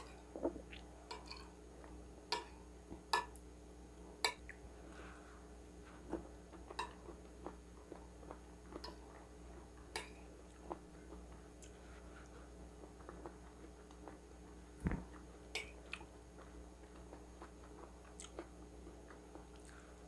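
Close-miked eating: chewing and mouth sounds, with sharp irregular clicks of a metal fork against a ceramic plate, over a faint steady hum.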